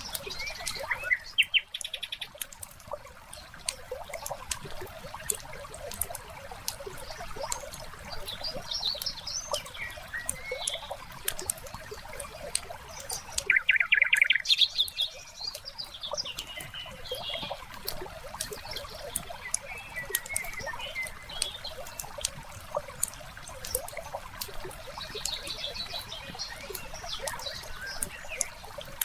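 Fire crackling with frequent sharp pops over a steady trickle of water, with birds chirping now and then; the loudest is a quick run of chirps about halfway through.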